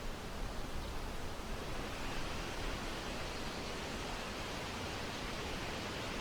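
Mountain-top wind blowing over the microphone: a steady rushing noise with an uneven low rumble from gusts buffeting it.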